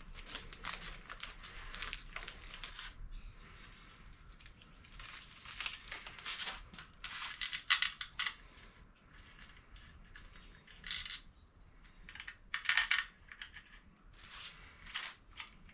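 Metal tools and bolts clicking and clinking in irregular runs as the water pump bolts are fitted and tightened on an aluminium engine block.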